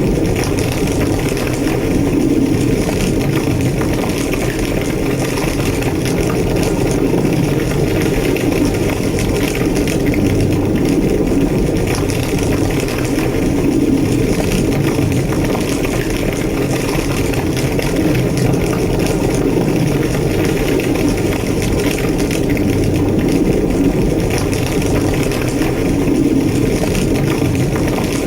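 Large structure fire burning steadily: a deep, continuous roar with constant fine crackling and no let-up.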